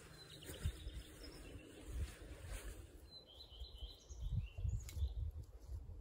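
Birds chirping faintly a few times in the middle, over an uneven low rumble.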